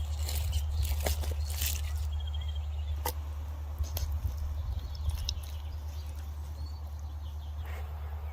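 Outdoor ambience: scattered crisp crackles and clicks, thickest in the first two seconds, over a steady low rumble, with a few short bird chirps.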